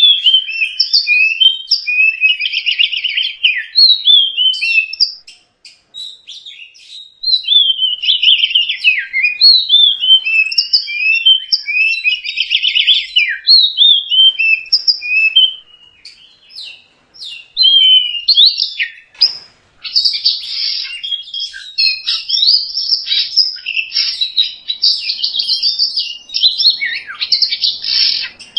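Oriental magpie-robin (kacer) singing: a fast, varied stream of whistled phrases, warbles and rattling trills. The song breaks off briefly about a fifth of the way in and again just past halfway.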